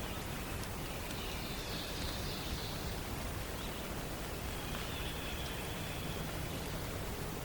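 Forest background ambience: a steady hiss with distant songbirds singing faintly over it, one high warbling phrase about a second in and another about five seconds in.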